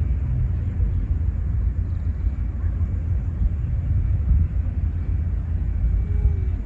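Outdoor park ambience dominated by a steady low rumble, with little else standing out.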